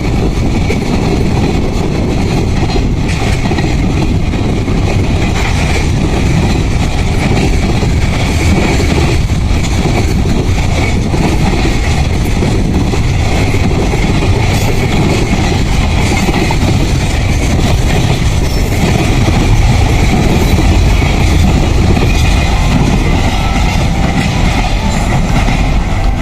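An EF510 electric locomotive hauling a train past at speed: a steady loud rumble of wheels on rail that swells a little about three-quarters of the way through.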